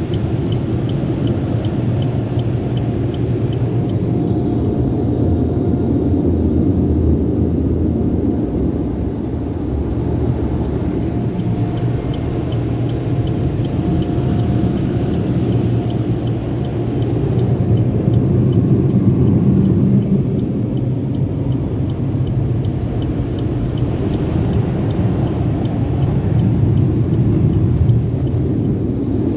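Motor City Wash Works car wash tunnel equipment running: a steady, loud rumble, with a faint regular ticking of about three a second at times.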